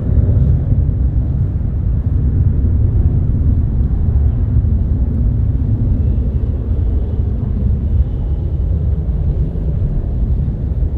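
Jet airliner engines giving a loud, deep rumble that eases slowly toward the end.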